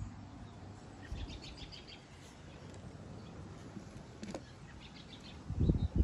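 Faint bird chirps over a quiet outdoor background, with a few heavy low thumps close to the microphone near the end.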